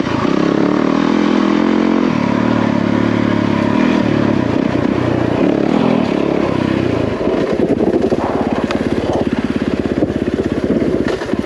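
Yamaha WR450F dirt bike's single-cylinder four-stroke engine running under the rider, the throttle rising and falling in steps. About seven seconds in it drops to low revs and turns into an even, pulsing putt, with a few knocks.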